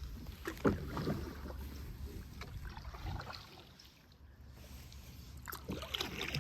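Canoe being paddled, with a handful of short paddle splashes and knocks over a low, steady rumble.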